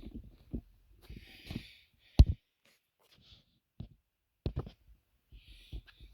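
A person breathing hard, with scattered knocks and rustles and one sharp thump about two seconds in.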